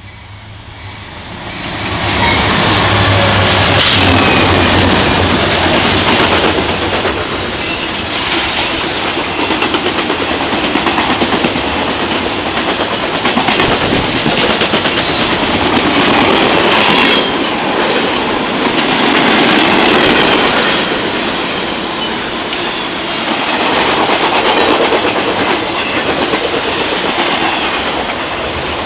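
Norfolk Southern intermodal freight train passing close by. The diesel locomotives' engine hum grows about two seconds in as they go past. The cars loaded with highway trailers then roll by with steady wheel clickety-clack and rumble.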